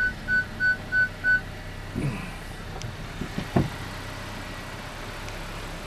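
Car's parking-sensor proximity beeper sounding repeated short beeps, about three a second, warning of the tree walls close on either side; the beeping stops about a second and a half in. Under it the car's engine runs at a low crawl.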